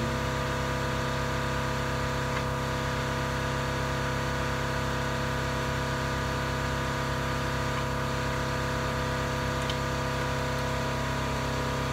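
Steady mechanical hum of a running motor, with many fixed tones that hold level and pitch without change.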